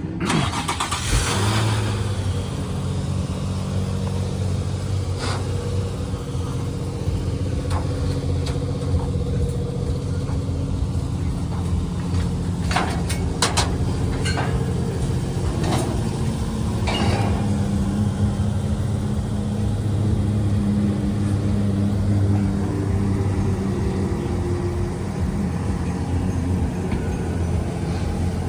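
A motor vehicle's engine running at a fairly steady pitch, with a few sharp clicks around the middle.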